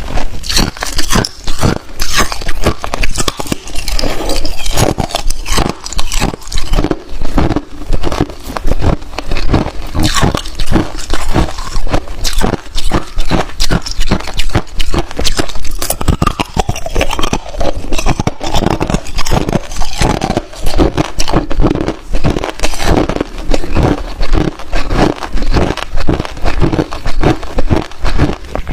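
Hard clear ice being bitten and chewed: a dense, irregular run of loud crunches and cracks.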